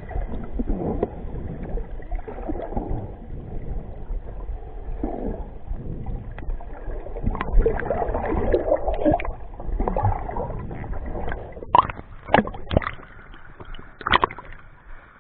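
Water sloshing and gurgling with a steady low rumble underneath, and a few sharp knocks near the end.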